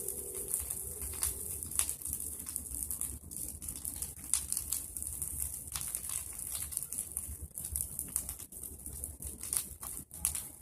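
A brush fire of pruned tree branches and dry leaves crackling, with irregular sharp pops over a steady hiss. A soft coo, like a dove's, fades out about half a second in.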